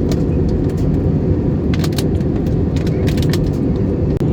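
Steady low cabin roar of an Airbus A321neo jet airliner on approach, engine and airflow noise heard from inside the passenger cabin. A few light clicks or rattles sound about two and three seconds in.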